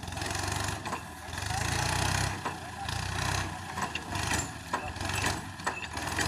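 Tractor engine running, its level swelling and easing every second or so, with scattered clicks and rattles over it.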